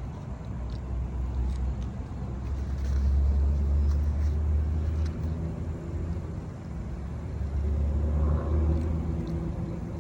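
Low rumble of road traffic, with engine hum swelling twice as vehicles pass.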